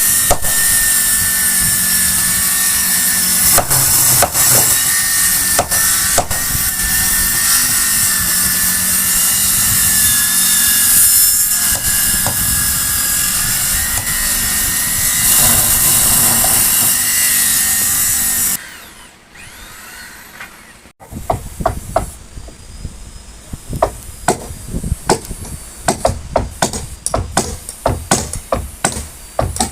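A handheld electric woodworking power tool runs at full speed while cutting wood, with a steady whine, and stops suddenly about two-thirds of the way in. After a short pause come quick, repeated knocks of hammering on wood.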